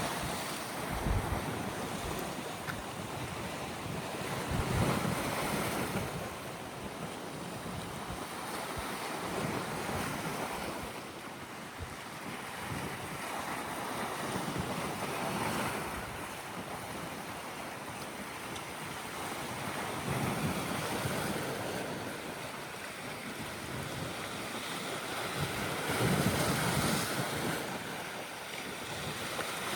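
Sea waves washing in, swelling and easing every few seconds, with wind buffeting the microphone as a low rumble.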